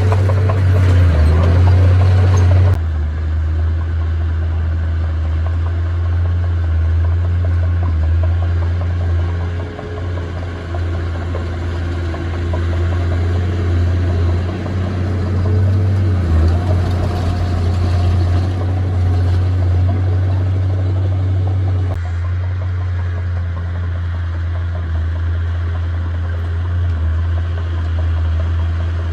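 A heavy earthmoving machine's diesel engine running steadily with a deep low hum. The sound changes abruptly twice, about three seconds in and again after about twenty seconds, as if cut between shots.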